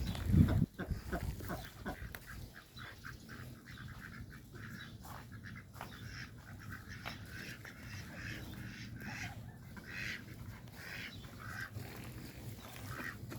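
A flock of chickens clucking and calling in short bursts while pecking, with many quick taps as they feed. A few loud low thumps come in the first second.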